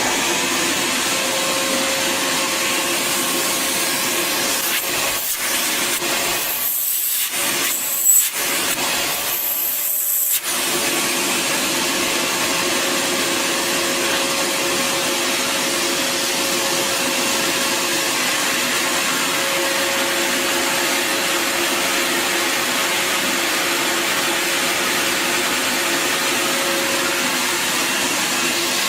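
Bissell Garage Pro wall-mounted 12-amp wet/dry vacuum switched on and running steadily with a steady hum. Between about five and ten seconds in, the sound briefly dips and changes several times.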